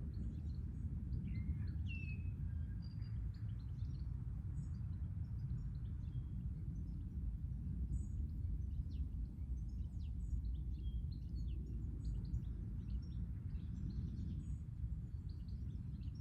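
Songbirds chirping and calling outdoors: many short, high chirps scattered throughout, busier in the second half, over a steady low rumble of outdoor background noise.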